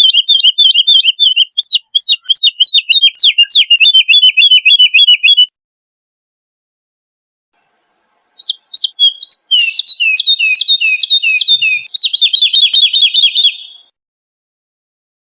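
Woodlark singing: a phrase of quickly repeated sweet notes lasting about five seconds, a pause of about two seconds, then a second phrase that speeds up into a fast trill and stops a little before the end.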